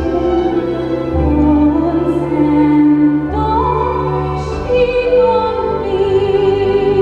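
A female soprano singing a Taiwanese folk song in long, held notes with vibrato, over instrumental accompaniment. A live concert performance captured on an iPod Touch, with poor sound quality.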